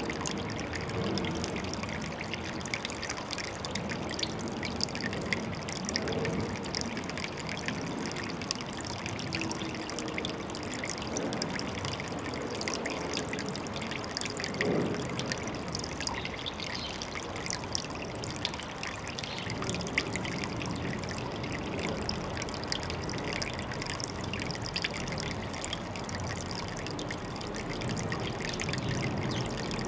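Water trickling steadily into a pond, with many small splashes and drips.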